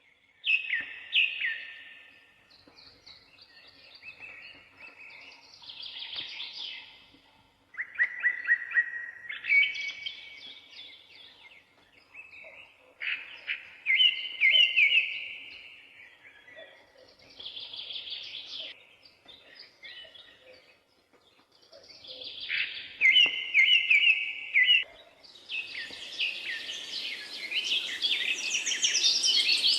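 A songbird singing short warbling phrases, each a second or two long, separated by pauses of a few seconds. Near the end, denser overlapping bird calls and a steady hiss come in.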